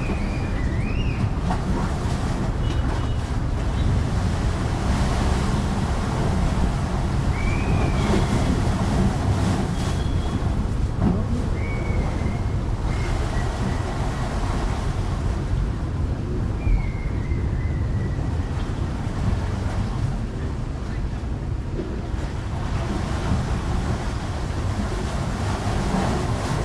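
Wind rumbling on the microphone over the steady wash of sea waves, with a few short high chirps scattered through it.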